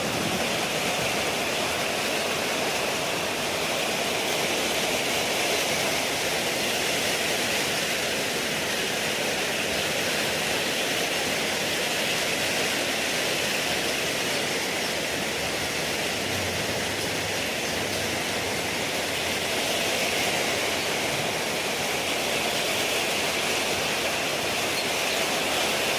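Heavy storm rain pouring down steadily, a dense even hiss.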